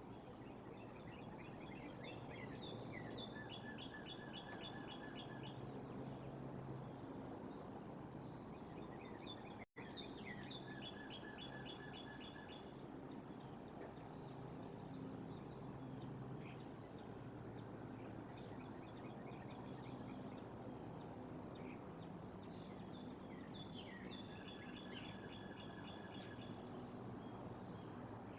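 Outdoor background noise with a bird calling three times: each phrase is a quick run of rapid, high, chittering notes with a lower trill beneath.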